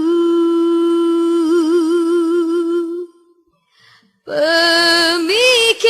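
Female voice singing a cappella. It holds a long note that gains vibrato about halfway and fades out about three seconds in. After a short breath, the next phrase starts and rises in pitch near the end.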